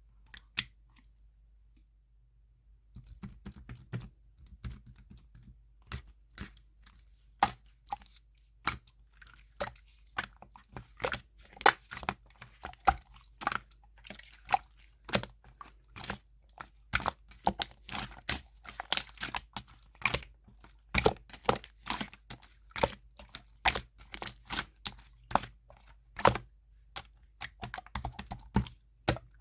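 Clear slime being squeezed and folded by hand, giving a dense run of sharp sticky clicks and pops, several a second, starting about three seconds in after a near-quiet start.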